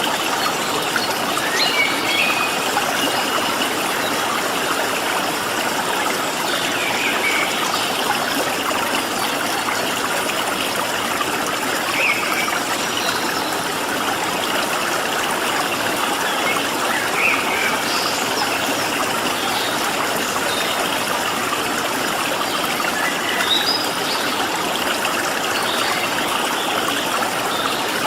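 Stream water flowing steadily, with short bird chirps now and then over the top.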